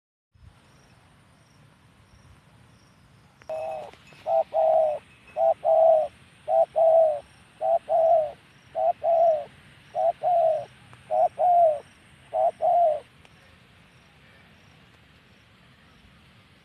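Spotted dove (tekukur) cooing: a run of low, repeated coos in short-long pairs that starts a few seconds in and lasts about nine seconds.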